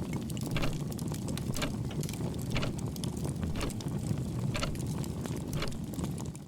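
A steady low rumble under a sharp tick about once a second.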